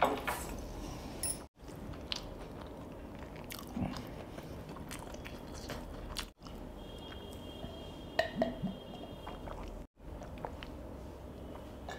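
Close-miked eating sounds: chewing and biting on a mouthful of noodles, with small wet clicks and a few light knocks. The sound drops out abruptly three times for an instant.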